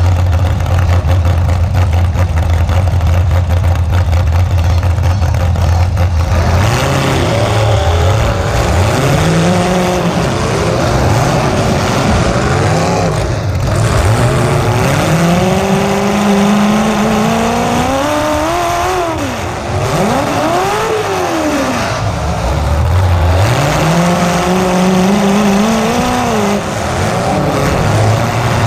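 A demolition derby car's engine, heard up close through open exhaust pipes that stick straight up through the hood. It idles steadily for about six seconds, then is revved up and down over and over as the car drives and backs around the arena.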